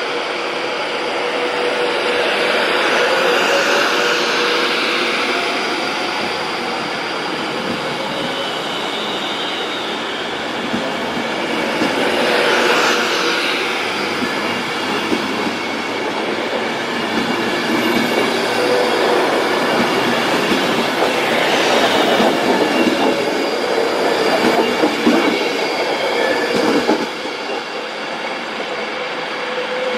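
A train moving through a station at close range, with a steady hum underneath. Its sound swells and fades several times and drops off suddenly near the end.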